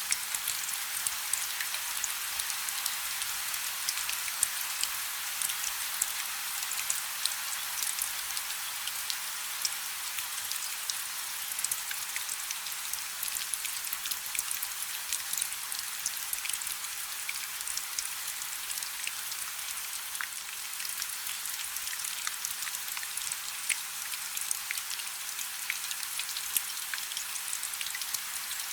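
Steady rain falling on a river: a dense, even hiss of drops with countless tiny sharp clicks from single drops hitting the water.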